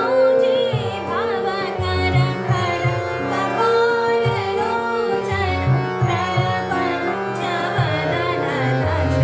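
Indian classical dhrupad song in raag Purvi: a voice sings an ornamented, gliding melody over a steady held drone, while a drum beats out sultal in low strokes.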